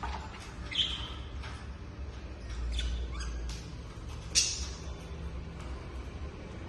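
Lovebirds giving a few short, high chirps and squawks while feeding, the loudest about four seconds in, over a low steady rumble.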